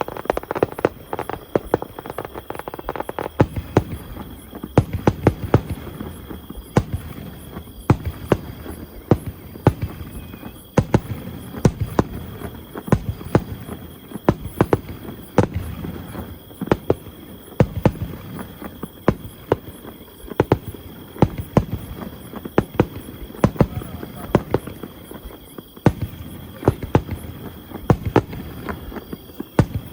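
Fireworks going off in quick succession: many sharp bangs and crackles, several in some seconds, over the chatter of a large crowd of spectators.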